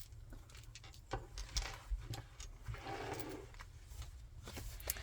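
Faint handling of a chunky handmade junk journal: a few light clicks of the beads and charms on it, then a brief rustle about three seconds in.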